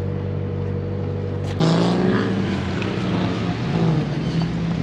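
A car engine idling with a steady tone, then about one and a half seconds in the sound switches abruptly to a louder car engine running, its pitch wavering slightly.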